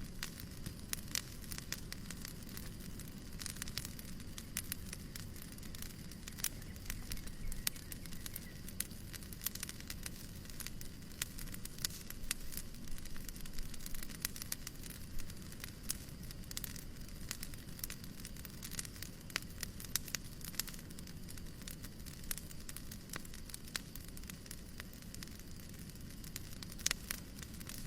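Fireplace crackling: irregular small snaps and pops, several a second, over a steady low hiss.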